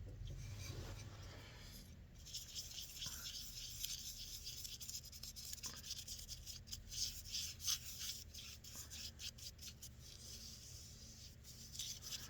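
Rag rubbing shellac onto a turned wooden lid spinning on a wood lathe: a faint, scratchy rubbing that comes and goes, picking up about two seconds in, over a low steady hum from the lathe.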